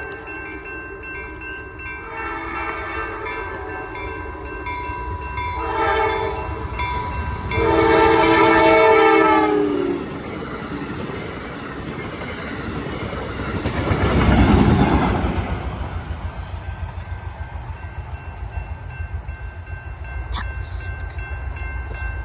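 Amtrak passenger train locomotive sounding its horn in four blasts, long, long, short and a final long loud one: the grade-crossing signal. The train then rushes past, loudest about fourteen seconds in, and its wheels rumble and clack on the rails as the cars go by.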